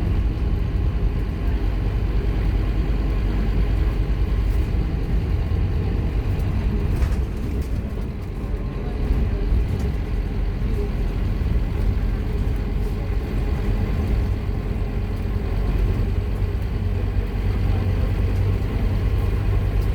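Scania K230UB Omnilink bus's engine running hard under load, a steady low drone that eases briefly about eight seconds in before pulling on again.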